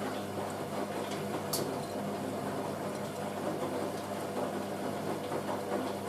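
Hoover A3060 Electronic 1100 washing machine running in its boil-wash heating stage, heating toward 95 °C: a steady low hum with scattered light clicks.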